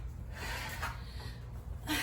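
A person breathing hard during a bodyweight exercise set: two noisy exhalations, one about half a second in and one near the end, over a low steady room hum.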